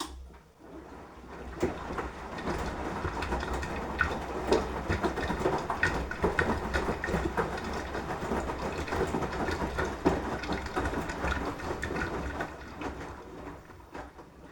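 Beko washing machine drum turning during the wash: a motor hum under the clatter and slosh of wet laundry and water tumbling. It starts suddenly, builds over the first couple of seconds and dies away near the end as the drum slows.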